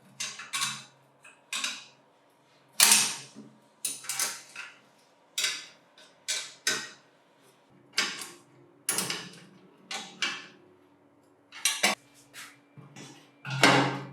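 Metal parts and hand tools clinking and scraping while a bench grinder's electric motor is put back together: about fifteen short, sharp knocks and scrapes at uneven intervals, some briefly ringing.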